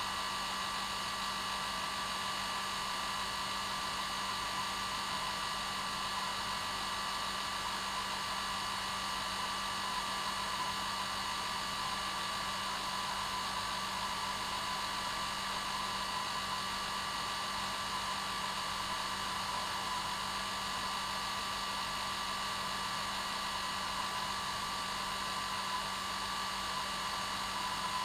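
Hair dryer running steadily: an even airy hiss with a constant motor whine, no change in speed.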